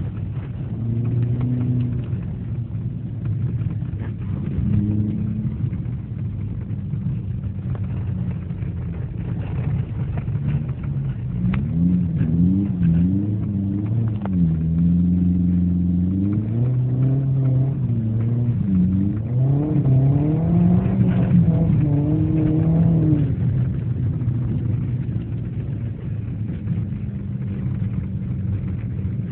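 Car engine heard from inside the cabin while driving, its pitch holding steady at first, then rising and dropping again and again through the middle as the revs climb and fall, and settling to a steady drone near the end.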